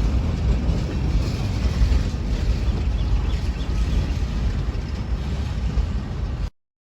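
A freight train rolling past: a steady rumble of wheels on rail that cuts off suddenly about six and a half seconds in.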